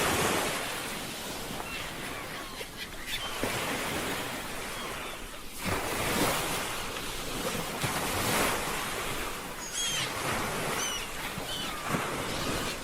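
Ocean surf washing onto a shore, swelling and ebbing in repeated surges every few seconds. A few short high chirps come through about ten seconds in.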